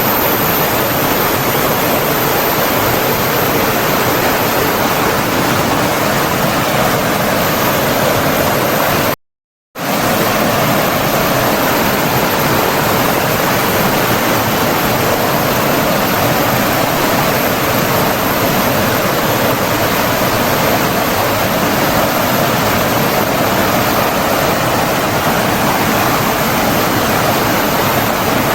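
Steady rush of flowing water from a stream or waterfall. It cuts out completely for about half a second about nine seconds in, then resumes.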